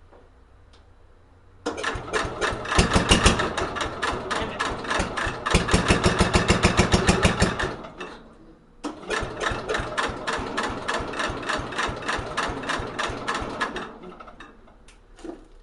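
1964 Cub Cadet 70 garden tractor engine being cranked over by its starter on a cold start, in two rhythmic bursts of about six and five seconds with a short pause between, not catching.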